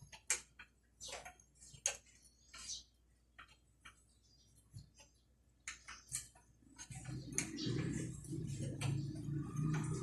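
Irregular sharp metallic clicks and ticks from a motorcycle chain being handled and worked on. About seven seconds in, a steadier rough rubbing, scraping noise joins the clicks.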